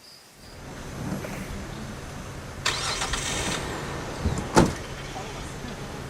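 An engine running with a steady low hum that starts abruptly, with a brief hissing rush about three seconds in and a sharp knock a second and a half later.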